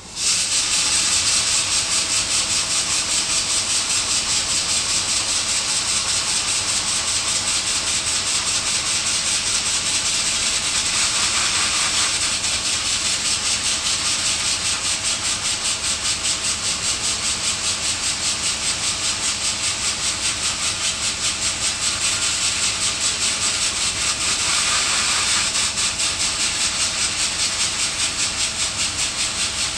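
High-pressure water jet spraying in a washing and deburring machine: a loud, steady hiss that starts suddenly, with a fast, even pulsing.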